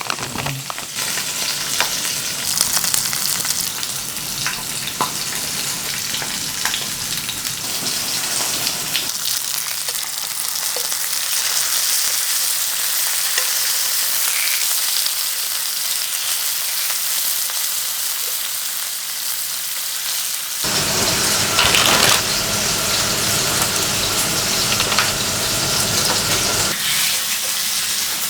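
Meat sizzling on a hot barbecue grill pan: a steady hiss of fat frying, with scattered small pops and crackles.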